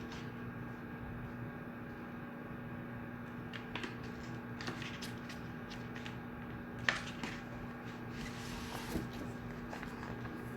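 Room tone of a quiet shared study room: a steady low hum with scattered small clicks and knocks, the sharpest about seven seconds in.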